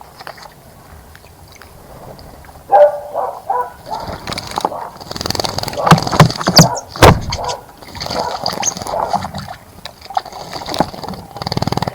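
A bird splashing and flapping in a shallow bird bath. Irregular bursts of splashing begin about three seconds in and are loudest around the middle.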